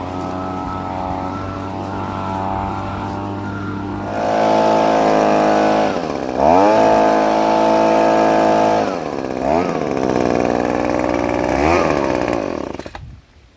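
Jet engine running loudly with a steady pitched drone, rising in level about four seconds in. Three times its pitch swoops sharply down and back up. It cuts off suddenly near the end.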